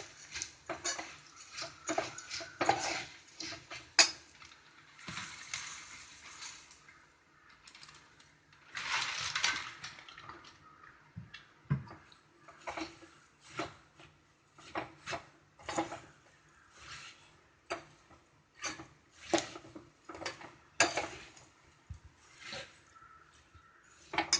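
A metal spoon knocking and scraping against a cooking pan in irregular strokes while puffed rice is stirred into the spiced oil, with short stretches of dry rustling from the tossed puffed rice.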